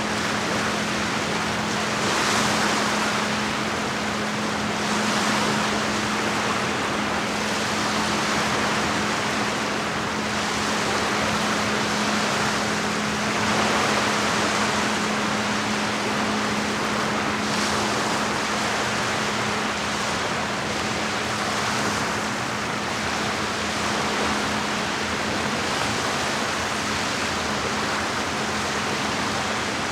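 Small lake waves washing against the shore, swelling in a brief surge every few seconds, over a steady low hum.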